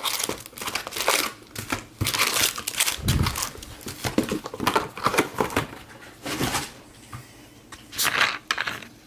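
Plastic or foil wrapping crinkling and tearing in irregular bursts, typical of packs or box wrap being opened.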